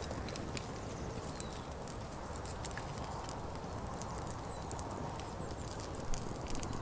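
Small campfire of brushwood and kindling crackling, with frequent sharp pops and snaps over a steady low rumble.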